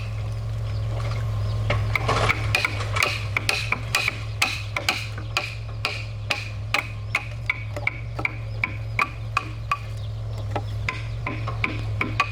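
Repeated sharp knocks, about two a second, over a steady low hum.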